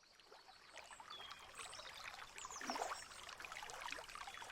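Faint trickling and splashing water, fading in from silence and growing a little louder.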